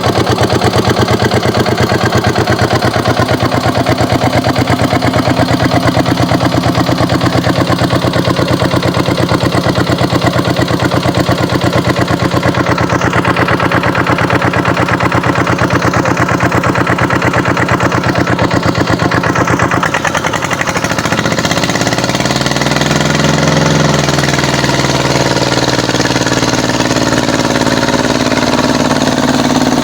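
Kubota tractor's diesel engine running with a steady, even beat. About two-thirds of the way in, its pitch starts rising and falling as the engine is revved and loaded.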